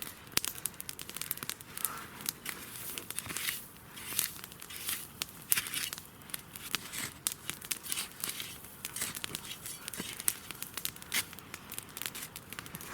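Campfire crackling, with a dense run of irregular pops and snaps.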